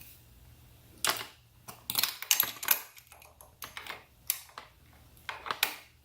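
Irregular sharp clicks and rattles of small hard parts being handled and fitted, as the DC power outlet is worked into its mount and hand-tightened.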